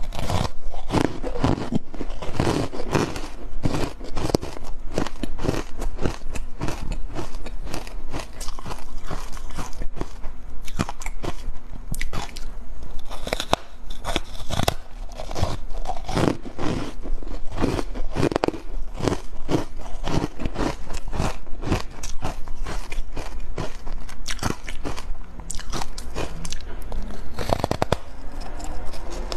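Ice coated in matcha powder being bitten and crunched and chewed, with many sharp crunches in quick, irregular succession.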